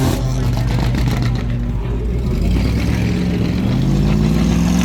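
Car engine pulling away and accelerating: the engine note drops sharply right at the start, as at a gear change, holds fairly steady, then climbs again from about three seconds in.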